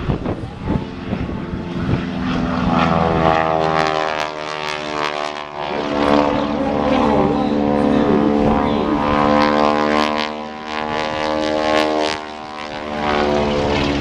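Propeller-driven aerobatic plane's piston engine and propeller droning loudly as it flies a low pass, growing loud a few seconds in, its pitch bending slightly in the middle, with a brief dip near the end.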